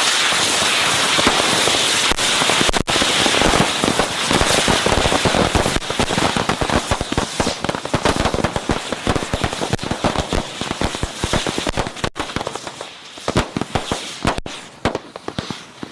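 A large batch of firework rockets launching together: a dense, steady hiss of rocket motors for the first few seconds, then a continuous rapid crackle of many pops and bangs that thins out near the end.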